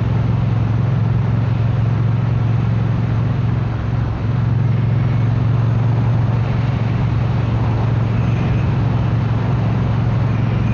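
Triumph motorcycle engine running at a steady cruising speed: an even low drone with a rush of noise over it, holding pitch throughout.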